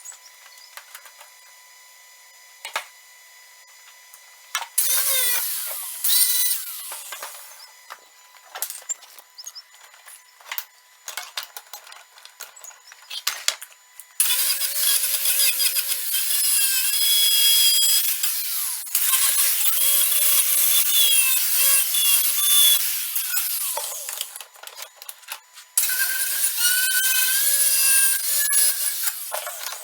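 A power tool runs under load in three long bursts, its pitch wavering as it works. Between the bursts are scattered clicks and knocks.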